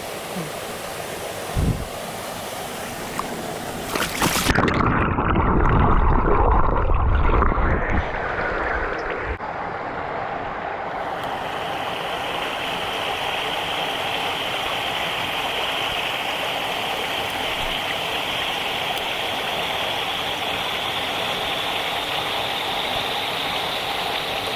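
Mountain stream rushing steadily. About four to eight seconds in, a loud muffled rumbling and knocking rises over it and briefly drowns the water's hiss.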